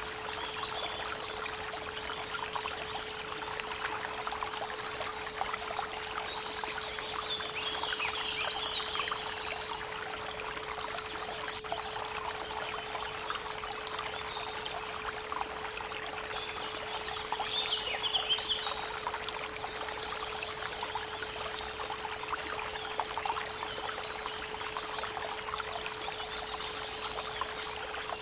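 A creek running steadily, with a steady 432 Hz pure tone held underneath. A songbird sings short phrases of quick high notes, most clearly twice, about five and about seventeen seconds in.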